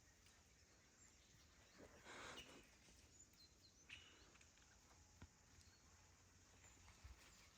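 Near silence: faint outdoor ambience with a few faint, short bird chirps and a brief soft rustle about two seconds in.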